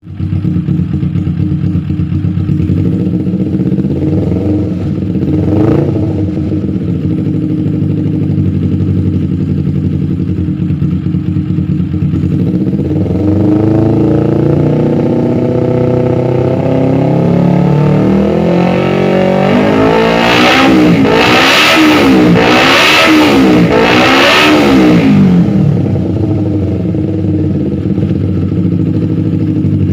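Kawasaki Ninja 250 carbureted parallel-twin engine breathing through an R9 aftermarket exhaust. It idles, blips once briefly about six seconds in, climbs slowly in revs from about halfway, then is revved up and down four times in quick succession before settling back to idle.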